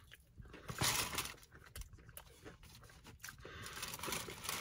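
Close-up crunching and chewing of a fried chicken tender with a crunchy breaded coating, the loudest crunch about a second in.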